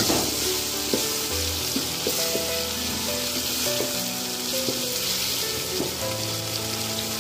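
Oil sizzling as a tomato-onion masala with ginger-garlic paste fries in an aluminium pot, stirred with a wooden spatula. This is the stage where the masala is cooked until the oil separates out.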